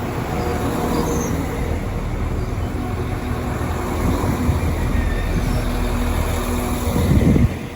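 Class 195 diesel multiple unit 195118 running into the platform, its diesel engine and wheels on the rails making a steady drone with a low rumble. The sound swells near the end, then drops suddenly.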